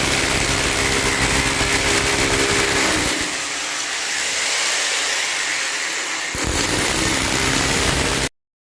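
Power tool motor running loudly and steadily, its sound thinning about three seconds in and coming back fuller a little over six seconds in, then cut off abruptly near the end.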